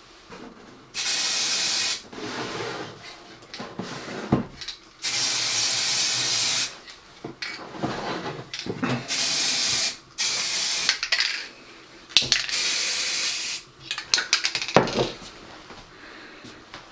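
Aerosol can of matte lacquer spraying in short bursts: four longer hisses of a second or more, with shorter puffs and small handling clicks between them, sealing weathering powders on a model building.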